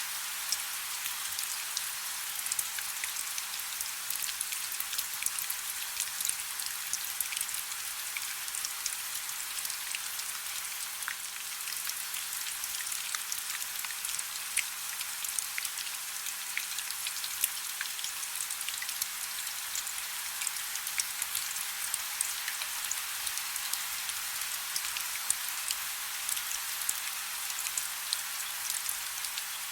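Soft, steady rain: an even hiss dotted with many small, sharp drop ticks, with no rumble beneath it. A faint steady low hum sits under the rain.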